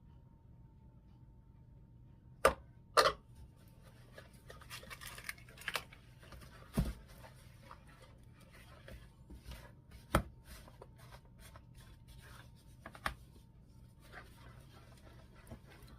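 Kitchen handling sounds while brownies are being made: a handful of sharp knocks and clatters of utensils and containers set down or struck, with softer rustling and small clicks between them.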